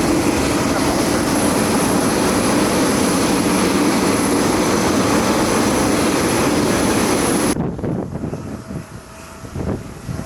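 Airbus A320 jet engines at takeoff power: a loud, steady jet noise with a low steady hum. It cuts off abruptly about three-quarters of the way through, leaving a much quieter background.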